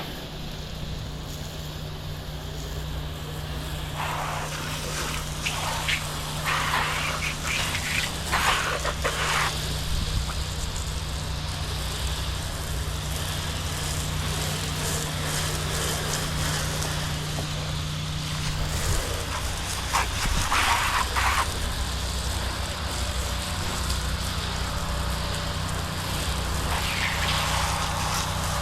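Pressure washer running, its engine a steady low hum, with the spray hissing and rushing louder in several short bursts as the jet hits the surface.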